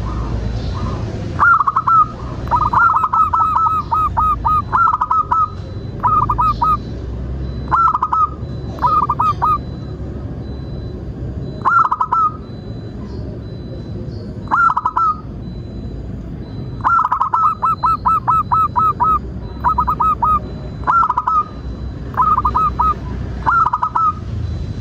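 Zebra dove giving its staccato cooing call: runs of short, clear notes, sometimes a pair or three, sometimes a rapid string of eight to ten, repeated every second or two over a steady low hum.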